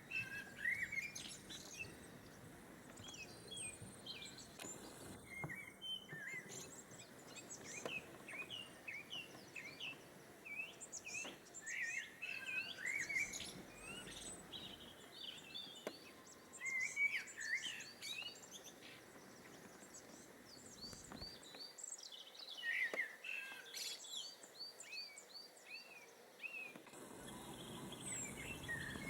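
Eurasian blackbird singing: a steady run of short whistled phrases and high squeaky notes, following one another every second or two.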